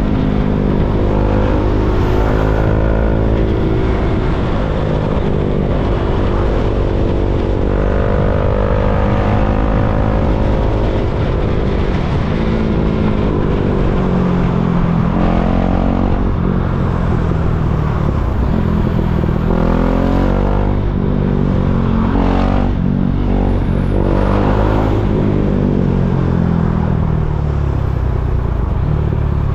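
KTM Duke 390's single-cylinder four-stroke engine under way, its revs rising and falling several times as the bike accelerates and slows.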